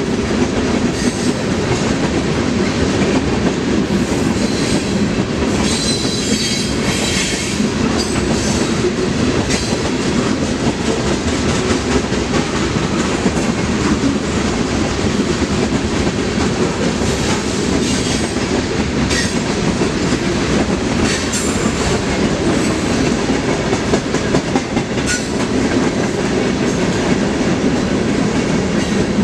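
A freight train's cars rolling past at close range: a steady rumble of wheels on rail with repeated clacks over the rail joints. High wheel squeals rise over it for a couple of seconds about six seconds in.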